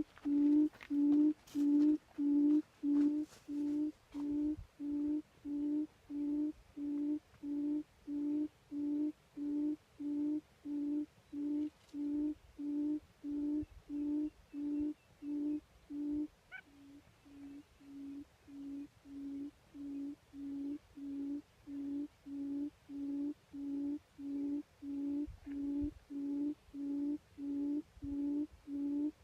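Forest quail call: a low, even hoot repeated steadily about one and a half times a second. A click about 16 seconds in is followed by a drop in level that builds back up.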